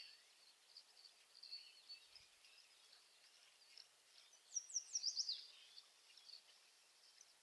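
Faint high bird chirps, with a quick run of four or five high notes that each slide downward about four and a half seconds in.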